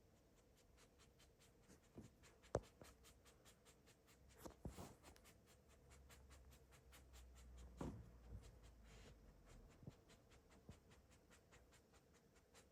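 Near silence with faint scratching and small clicks, and one sharper tap about two and a half seconds in; a low rumble comes and goes through the middle.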